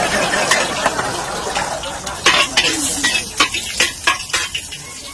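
Onion and garlic sizzling in hot oil in a large wok, loudest at first and then dying down. A metal spatula stirs and scrapes, clanking against the pan about five times in the second half.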